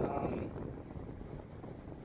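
1997 Lexus GS300's 2JZ-GE straight-six with its secondary muffler removed, heard from inside the cabin while driving: a steady low exhaust drone with road noise, a little louder in the first half second and then settling.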